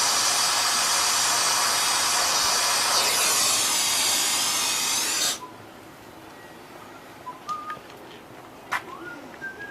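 Brazing torch flame hissing steadily, then shut off suddenly about five seconds in, leaving faint short chirps and ticks.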